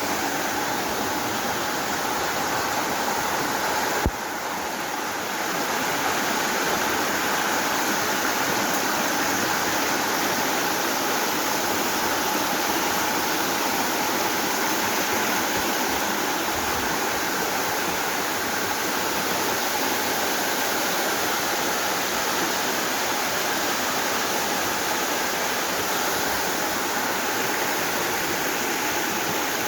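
Steady rushing of flowing water, like a stream or waterfall. A single sharp click about four seconds in, after which the water is briefly a little quieter.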